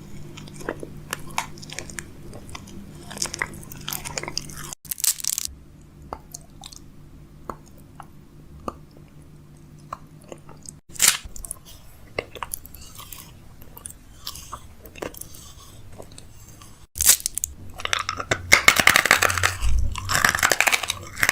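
Fridge being restocked: a run of short clicks, taps and clatters as containers and packages are handled and set down, over a low steady hum, with louder rustling and crinkling near the end.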